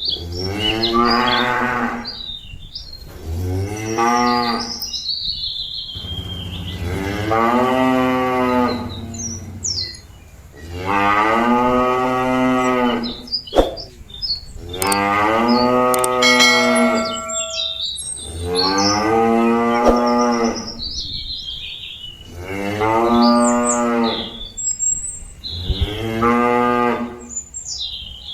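A cow mooing loudly over and over, about eight long drawn-out calls a few seconds apart, calling to its herd mates to come back to the pen. Birds chirp faintly between the calls.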